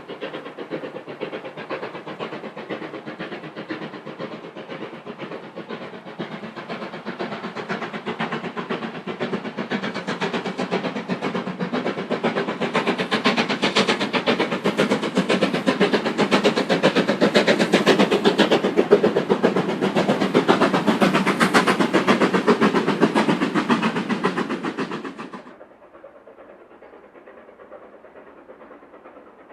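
Steam locomotive working a train past at speed, growing steadily louder to a peak with a fast, dense beat of exhaust and wheels. About 25 seconds in the sound drops suddenly to a much quieter steady noise.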